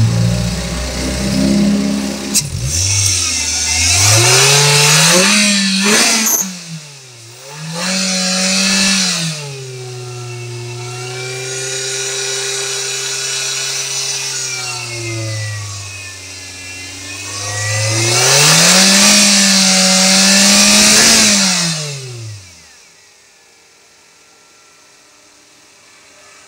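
Old Perodua Myvi's 1.3-litre 16-valve twin-cam four-cylinder engine, fitted with a Simota Turbo Twin Fan intake, being revved from idle three times. Each rev rises in pitch and falls back, with a loud rush of air, and the engine holds a slightly raised speed between revs. The engine sound stops well after halfway, leaving only a faint background.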